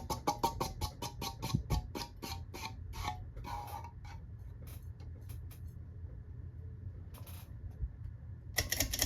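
Casablanca Delta II ceiling fan ticking in a regular rhythm as it slows down. The ticks go from about five a second to about two a second over the first four seconds, then come only now and then, with a quick run of clicks near the end.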